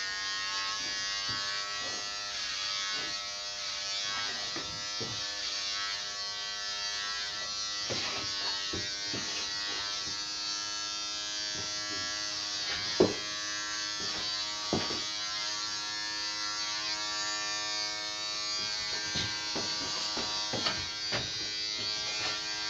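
Electric hair clippers running with a steady buzzing hum, with scattered short clicks and knocks, the loudest a little past halfway through.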